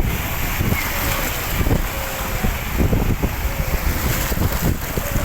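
Wind buffeting the microphone: a loud, irregular low rumble over a steady hiss.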